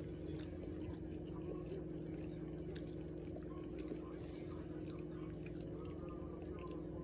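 Close-up chewing of barbecue food, with many small clicks from the mouth, over a steady low hum.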